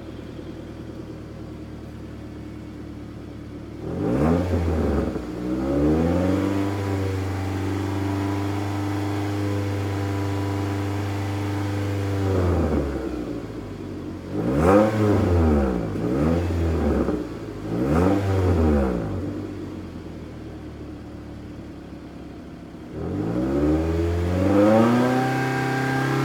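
Toyota Vellfire ANH20's 2.4-litre inline-four heard through an exhaust with a straight-through rear muffler section. It idles, takes two short blips about four seconds in, then holds a steady higher rev for about six seconds. After that come three quick blips, a drop back to idle, and a rise to another held rev near the end.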